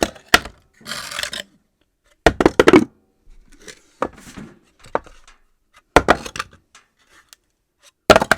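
Objects dropped on a floor one after another at uneven intervals, each landing with a sharp knock and a short clatter or rattle as it bounces; about seven drops, the last near the end.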